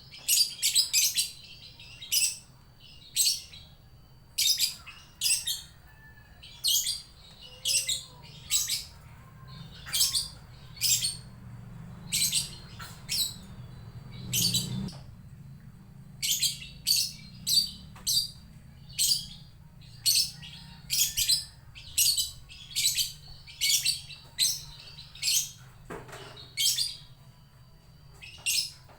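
A lovebird calling in its 'ngekek' chatter: a long run of short, shrill, high-pitched calls, about one a second, with a pause of about two seconds midway.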